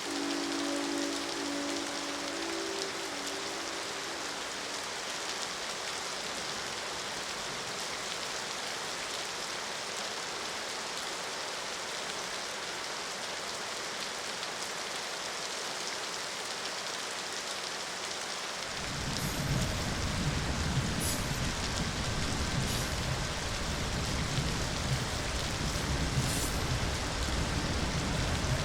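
Steady rain falling. A few steady low tones fade out in the first few seconds, and about two-thirds of the way in a deep low rumble sets in and carries on under the rain.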